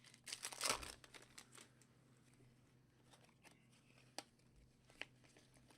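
Faint handling of trading cards being sorted through: a soft rustle about half a second in, then scattered light ticks, two of them sharper near the end.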